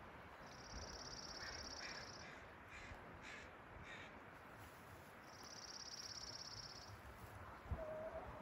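Birdsong outdoors: a high, rapid trill about a second and a half long, heard twice, with a run of short, faint calls between the trills.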